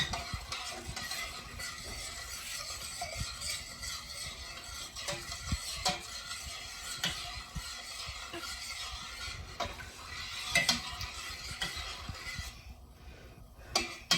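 A spoon stirring and scraping around a pot of warming vinegar-and-salt brine to dissolve the salt, with irregular light clinks against the pot. It eases off near the end.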